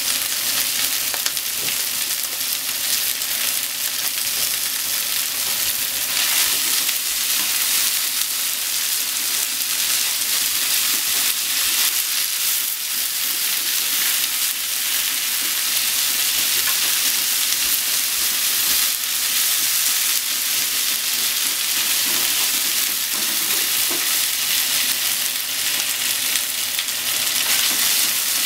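Sliced beef and onions sizzling in a frying pan with a steady high hiss, while a spatula stirs and turns them over.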